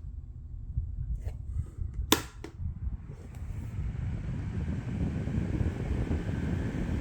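An electric fan's controls clicking a few times, the sharpest click about two seconds in. Then the fan runs with a low rushing noise that builds steadily louder as it comes up to speed.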